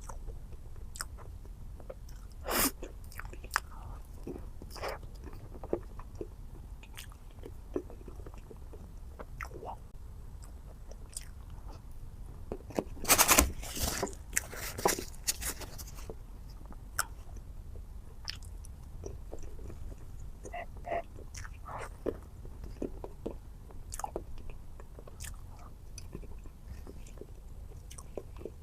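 Close-miked mukbang eating sounds of chocolate dessert: chewing and wet mouth sounds with scattered sharp clicks, and a louder burst of crunching about halfway through.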